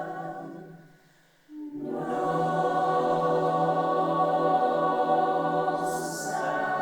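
Choir singing sustained, wordless chords. The chord fades away about a second in, and after a brief near-silence the voices come back in on a new held chord. There is a short hiss near the end.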